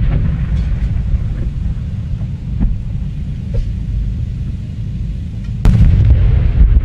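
Fireworks display: a steady low rumble of shell bursts with small crackles, then a sharp, loud burst about six seconds in.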